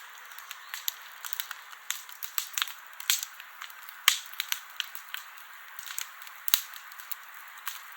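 Campfire crackling: irregular sharp pops and snaps over a soft steady hiss, with two louder pops about four and six and a half seconds in.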